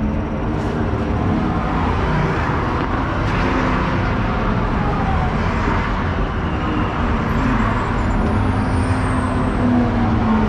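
BMW race car's engine idling steadily, heard from inside the stripped, caged cabin.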